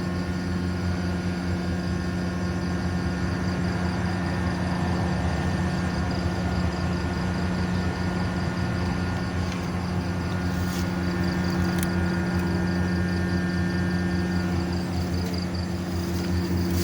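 Air conditioner running, just recharged with refrigerant: a steady mechanical hum with an even low electrical buzz underneath.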